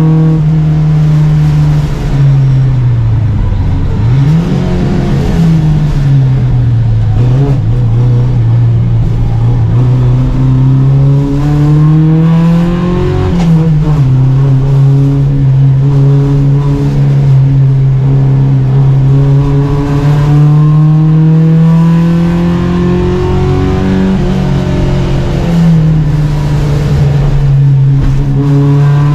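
Racing Volvo Amazon 121 four-cylinder engine under hard load, heard from the car. The engine note dips and climbs through corners early on, then rises steadily and falls sharply near 13 s and again near 26 s, the pattern of upshifts.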